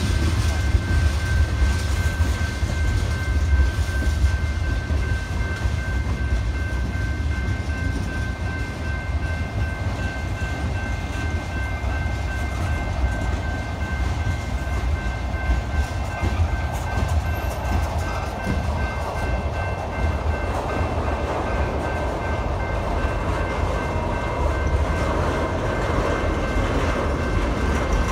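Freight train of tank cars and flatcars rolling past close by: a steady low rumble of wheels on rail, with a thin steady high whine above it.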